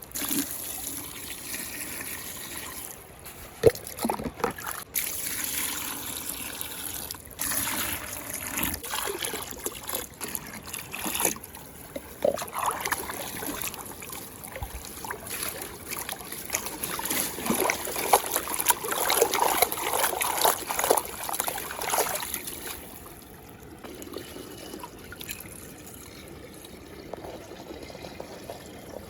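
Muddy water trickling and splashing in a steady, uneven patter, heavier and louder through the middle and settling to a softer trickle near the end.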